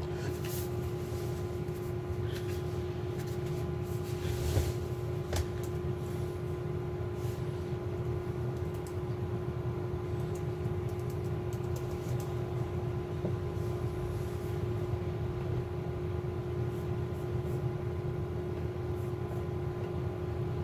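Steady background hum with a constant tone and low rumble, with a few light clicks and taps in the first half, from items being handled on a desk.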